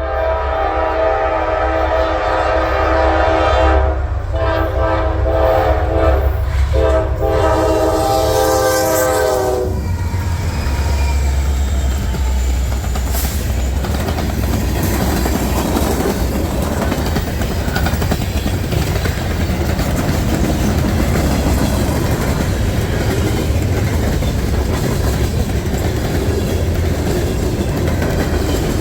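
Norfolk Southern diesel freight locomotives sounding a multi-note air horn in long blasts with short breaks, over a low engine rumble. The horn stops about ten seconds in, and the train keeps rolling past with steady wheel and rail noise.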